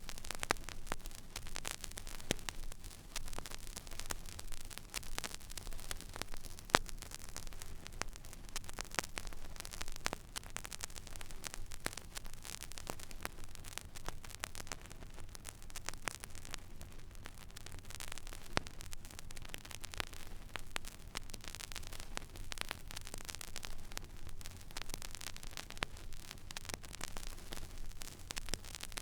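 Turntable stylus tracking an empty vinyl record groove: steady surface hiss full of irregular crackles and pops, one sharper pop about seven seconds in, over a low hum.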